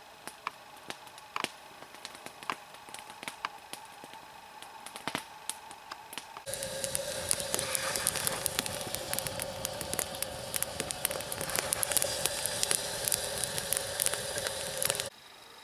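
Campfire of dry, resinous conifer twigs crackling with scattered sharp pops. About six and a half seconds in it jumps abruptly to a louder, denser crackling with a steady hissing tone, which stops suddenly near the end.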